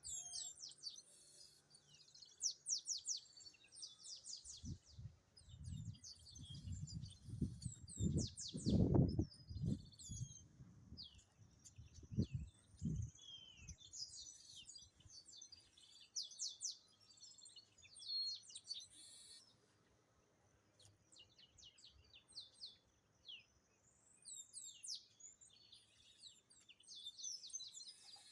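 Many small birds chirping and calling at once, quick high twitters and short sweeps overlapping without pause. From about five to thirteen seconds in, a series of loud low thumps and rumbles sounds beneath the birdsong.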